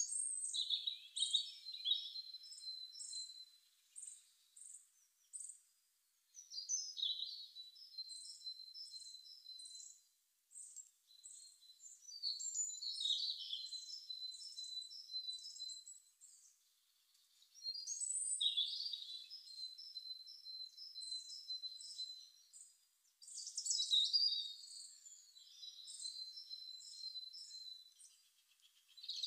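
A songbird singing high-pitched phrases of rapid chirping notes, repeated roughly every five to six seconds with short pauses between them.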